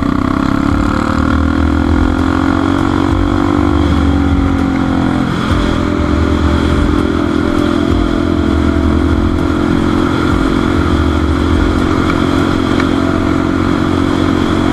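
Motorcycle engine running under way, its pitch rising gently over the first few seconds, dipping briefly a little past five seconds in, then holding steady.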